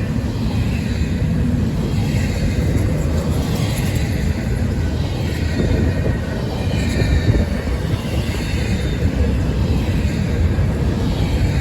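A train rolling past with a steady rumble of cars on the rails.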